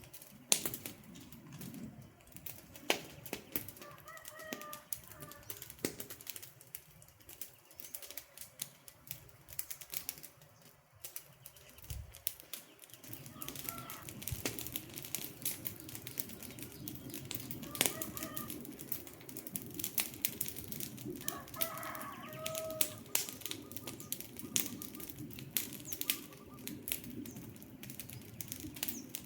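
Wood campfire crackling, with many sharp pops and snaps over a steady low crackle. A bird gives short calls a few times in the background.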